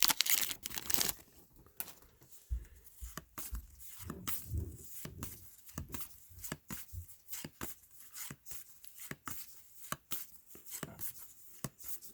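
Topps WWE trading cards handled and flicked through one by one: an irregular run of short, sharp card clicks and slides, with a crinkly rustle of a foil pack wrapper in the first second.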